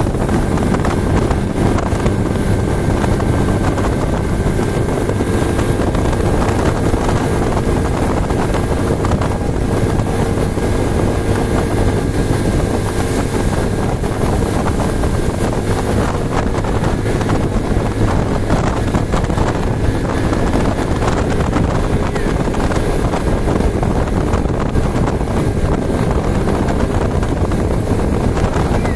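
Motorcycle engine running steadily while riding, with an even drone that holds for the whole stretch.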